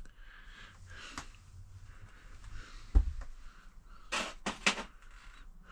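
A single low thump about three seconds in, then a quick run of short scuffing noises about a second later.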